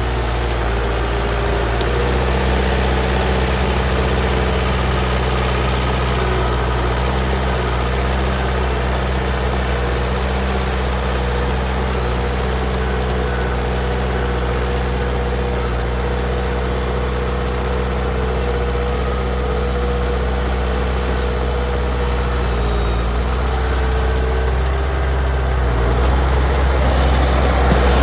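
Heavy diesel engine of earthmoving machinery running steadily at a low, even speed, with a small change in its note past the middle and getting a little louder near the end.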